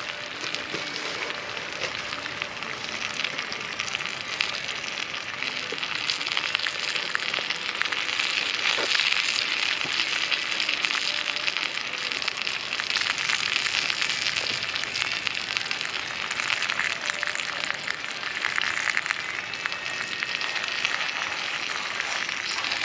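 Food frying in a hot pan, a steady sizzle with fine crackling throughout.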